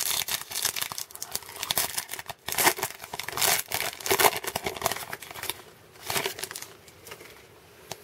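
Wrapper of a 2018 Bowman baseball card pack crinkling and tearing as it is pulled open by hand. A busy run of rustles that eases off about six and a half seconds in.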